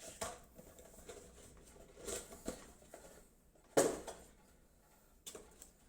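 Scattered light knocks and rustles of computer parts being handled, with a sharper knock a little under four seconds in.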